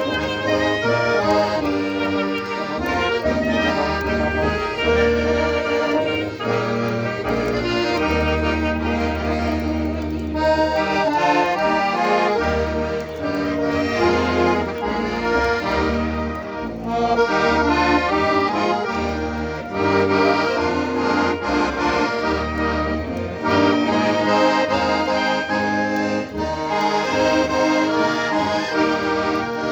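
An accordion playing a melody in a traditional style, over changing low bass notes.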